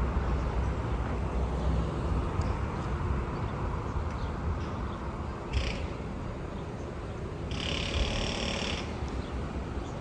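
Low, steady rumble of road traffic and bus engines on a street, with a short hiss about five and a half seconds in and a longer hiss lasting about a second near the end.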